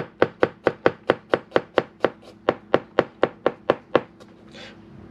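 Kitchen knife chopping garlic on a cutting board in quick, even strokes, about four a second, stopping about four seconds in.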